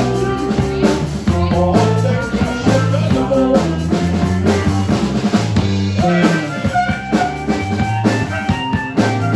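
Live rock band playing an instrumental passage: drum kit keeping a steady beat with rimshots under guitar, without singing.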